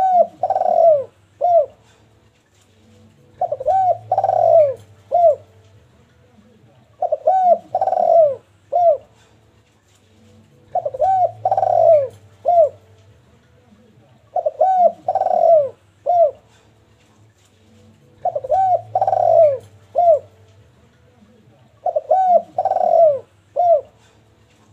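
Derkuku dove cooing over and over, its phrase repeated about every four seconds: three quick coos run together, then one short coo after a brief pause.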